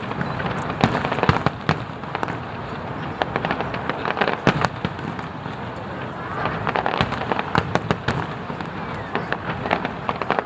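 Aerial fireworks bursting in quick, irregular succession: many sharp bangs and cracks, some overlapping.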